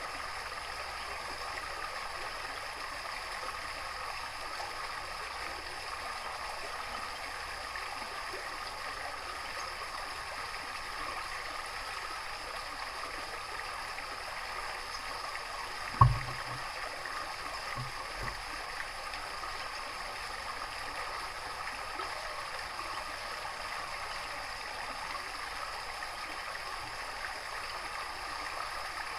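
Steady running water, an even rushing hiss. About halfway through there is one sharp low thump, followed shortly by two faint knocks.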